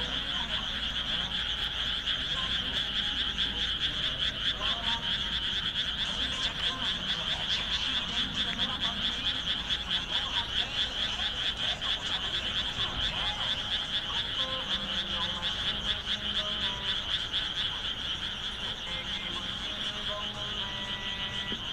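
Dense chorus of many frogs calling at once, a continuous high-pitched fast trill that does not let up. A faint low hum joins in the background about two-thirds of the way through.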